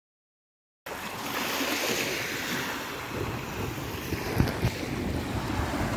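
About a second of dead silence, then wind buffeting the microphone over the steady wash of sea waves, with two short knocks about four and a half seconds in.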